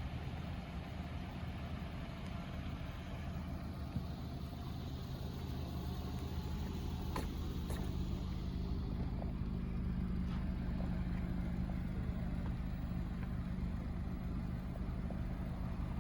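2017 Nissan Rogue's 2.5-litre four-cylinder engine idling steadily, heard from outside the car, with a few faint clicks.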